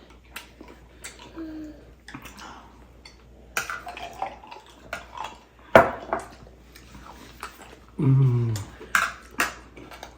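Eating sounds of people eating momo dumplings: wet mouth and liquid sounds with utensils tapping and clinking on plates, one sharp clink about six seconds in, and a short low hum of a voice about eight seconds in.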